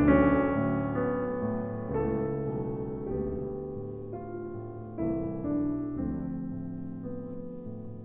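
Slow, gentle piano music: chords struck every second or so and left to ring and fade.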